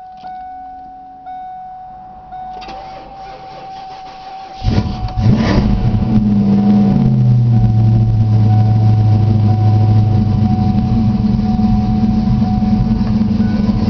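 Performance car engine starting. A steady high whine with a few faint clicks runs for about four and a half seconds, then the engine catches suddenly, rises briefly in revs and settles into a steady idle.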